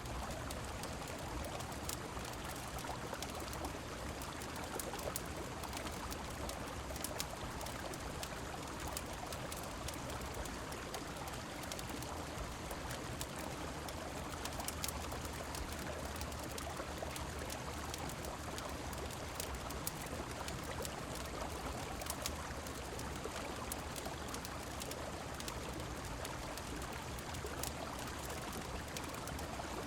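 Steady rush of river water and falling rain, with scattered sharp crackles from a wood fire.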